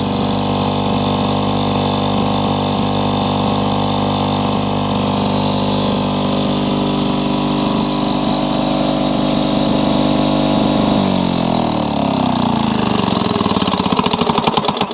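Old Lawn-Boy two-stroke push mower engine running steadily and well. About 11 seconds in it is shut off, and its pitch falls as it coasts down, ending in a few slowing chugs.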